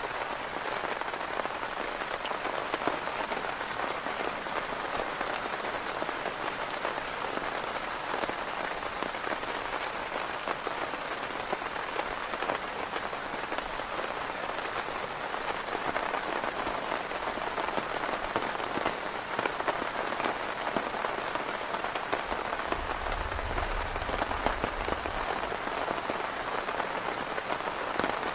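Heavy rain falling steadily on a tent, a dense patter of drops. A low rumble comes in for a couple of seconds a little before the end.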